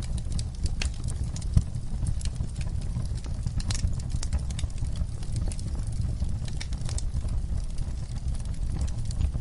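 Wood fire burning: a steady low rumble with frequent, irregular sharp crackles and pops, one louder pop about one and a half seconds in.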